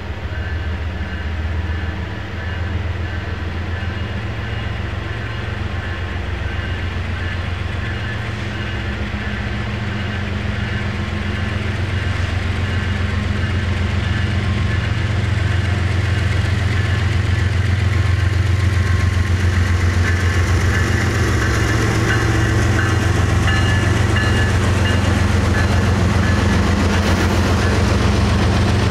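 Union Pacific freight train's diesel locomotives approaching and passing close by, a steady low engine throb that grows louder from about halfway through. A hiss of wheels on rail builds in the last several seconds as the units draw level.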